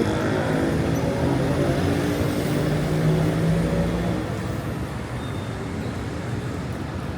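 Street traffic: a motor vehicle's engine running close by and fading away about four seconds in, leaving a steady hum of traffic.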